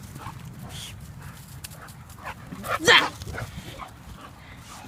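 A dog barking: one loud, sharp bark about three seconds in, with a few shorter, fainter yaps around it.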